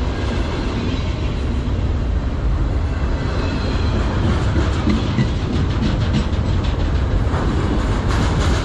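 Autorack freight cars rolling past in a steady heavy rumble, with wheels clicking over the rail joints in a quick rhythm that grows more distinct in the second half.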